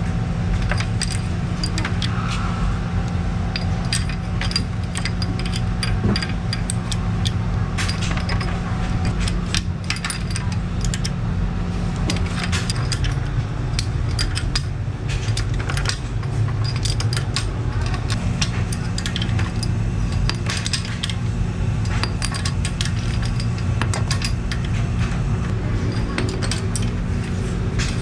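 Workshop machinery running steadily with a constant low hum, under frequent sharp metallic clinks and clicks of metal parts being handled.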